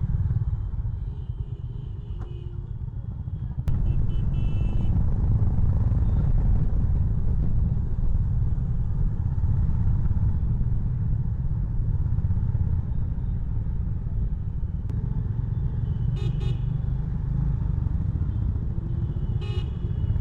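Honda CB350 Highness single-cylinder engine running under way, with wind on the microphone; it gets louder suddenly about four seconds in. Vehicle horns toot a few times.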